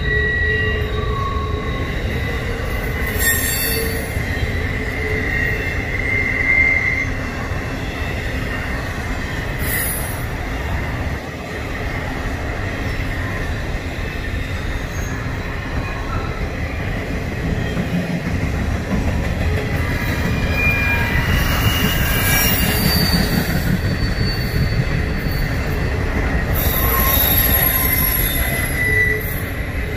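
Double-stack intermodal freight train rolling past at close range: a steady rumble of wheels on rail, with high-pitched squeals from the passing cars that come and go.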